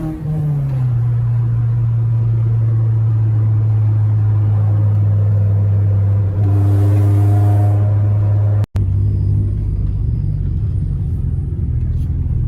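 Honda Civic EK hatchback's engine droning steadily while cruising, heard from inside the car. The pitch drops in the first second as the revs fall, the drone grows a little louder about six and a half seconds in, and it breaks off for an instant near nine seconds.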